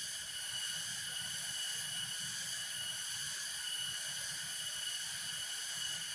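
A steady chorus of insects, holding several high, unchanging pitches without a break, over a faint low rush of water.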